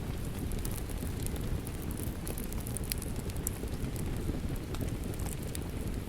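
A wood fire crackling, scattered sharp pops over a steady rush of rain.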